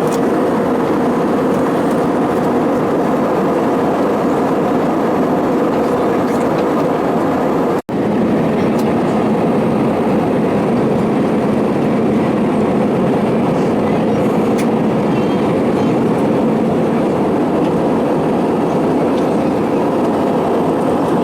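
Steady cabin noise of an Airbus A320-214 at cruise, with its CFM56-5B engines: a continuous rush of airflow and engine noise with a low, even hum under it. It drops out for an instant about eight seconds in, then carries on unchanged.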